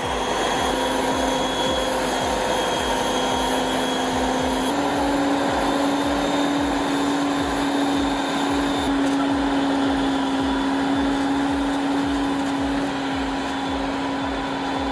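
Volvo logging truck's diesel engine labouring under load on a steep climb, a steady drone with a regular low pulse; its pitch steps up slightly about five seconds in.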